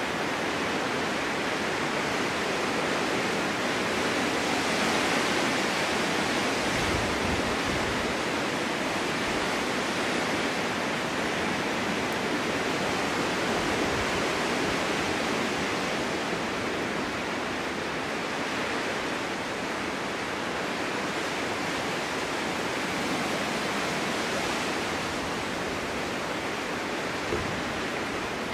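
Snowstorm wind blowing steadily, a dense even hiss that swells and eases slowly, with brief low rumbling gusts about seven seconds in and again near the end.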